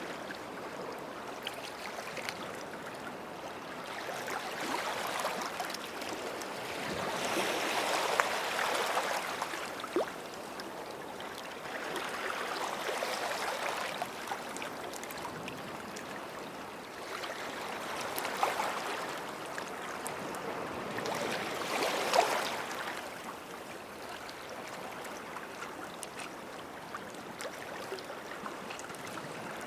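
Small sea waves washing in and out at the water's edge, coming in several gentle swells, the strongest about eight seconds in and again about twenty-two seconds in, with a light crackle of water over sand.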